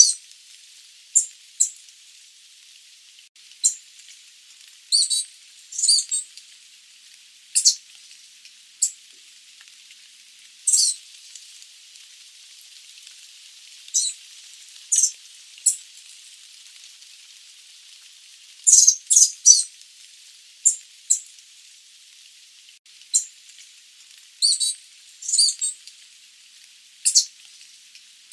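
Sooty babbler giving short, sharp high-pitched call notes at irregular intervals, some singly and some in quick pairs or small clusters, over a steady background hiss.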